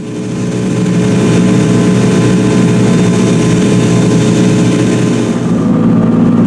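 Rally car engine running hard at full throttle, its pitch rising and falling with the revs. It swells up within the first second and then stays loud.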